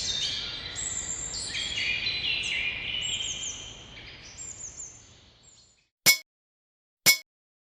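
Birds singing over a morning outdoor ambience, fading out about five seconds in. Then a dull metal pang struck twice, a second apart: the timer's alarm.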